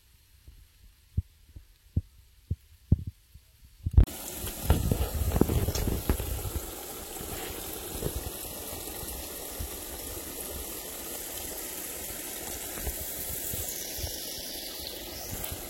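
Soft, muffled footsteps on a hiking trail, about two a second, then a sudden change about four seconds in to a steady rushing noise.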